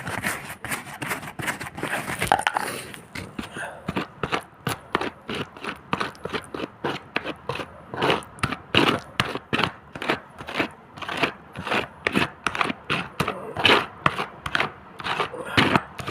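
Repeated scraping strokes, irregular at first, then settling into a steady rhythm of about two to three a second a few seconds in.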